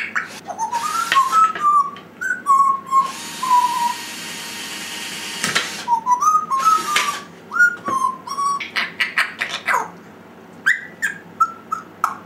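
African grey parrot whistling a run of short, wavering notes, mixed with sharp clicks. A long hissing noise lasts about three seconds in the middle.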